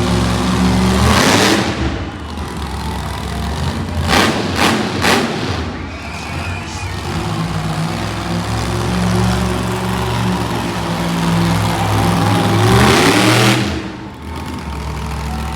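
Monster truck engine running loud with a deep steady drone, revving up about a second in and again near the end. A few short, sharp bursts of sound come around four to five seconds in.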